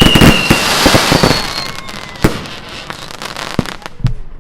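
Fireworks going off: a falling whistle dies away in the first half second over dense crackling, which then thins to a few separate sharp bangs.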